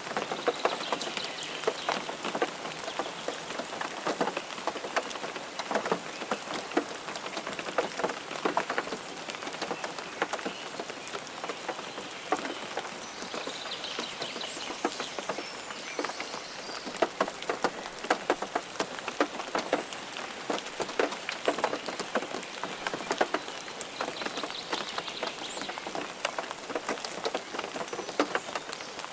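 Rain falling on a car: a dense, irregular patter of drop hits over a steady hiss.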